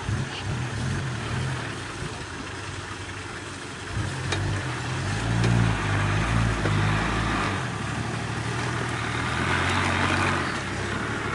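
Off-road 4x4's engine running and revving under load, louder and deeper from about four seconds in, then holding at a steady drone.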